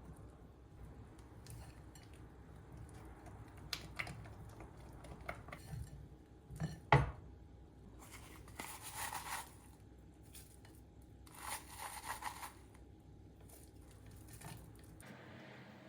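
Kitchen handling noises: a few light clicks and a sharp knock about seven seconds in, then two short noisy rushes of about a second each, around nine and twelve seconds in.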